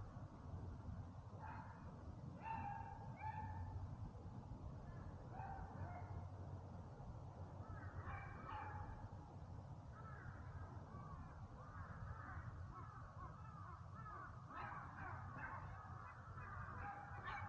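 Wild birds calling in woodland: a few short harsh caws in the first several seconds, then from about ten seconds in a busier stretch of many overlapping chirping calls, over a faint steady low rumble.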